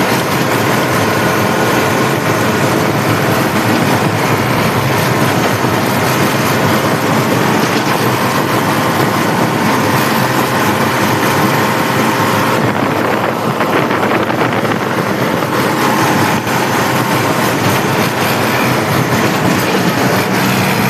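Tractor engine running steadily while the tractor is driven, a loud, continuous mechanical din with little change over time.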